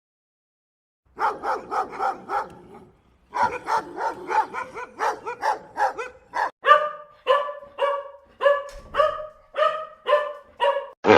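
An animal barking repeatedly: a long series of short, pitched barks, fast at first, then steadier at about two a second, with a brief pause after the first few.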